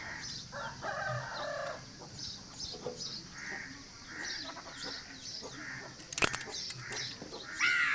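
Chickens clucking on and off, with a sharp click a little after six seconds in.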